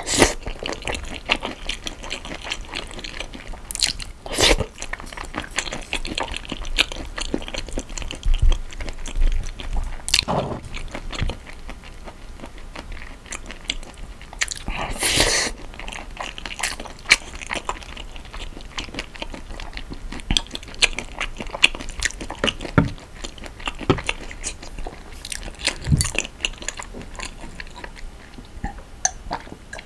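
Close-miked chewing of rice topped with marinated raw shrimp, with many small clicks of a wooden spoon and chopsticks against a wooden bowl and a few louder brief mouth noises.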